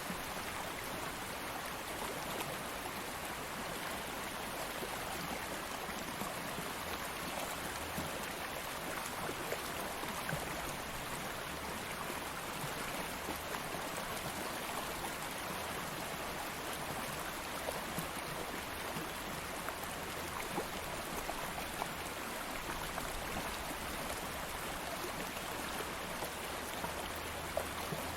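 A stream of water flowing steadily over rocks, a continuous rushing with small splashes and trickles.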